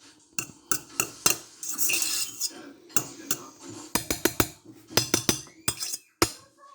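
Kitchen utensils knocking and clinking against pots and dishes: a dozen or so sharp knocks at irregular intervals, with a short stretch of scraping about two seconds in.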